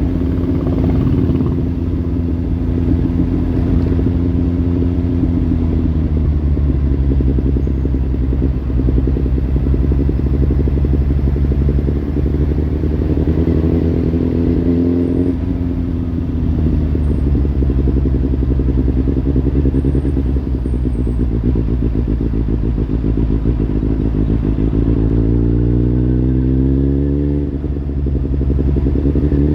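Kawasaki Z800's inline-four engine through a Lextek slip-on exhaust, running on a steady note with the revs climbing twice and dropping off sharply each time, and climbing again right at the end.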